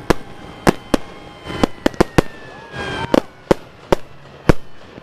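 Firecrackers going off in an irregular string of sharp bangs, about a dozen in five seconds, with a high engine note slowly falling in pitch behind them.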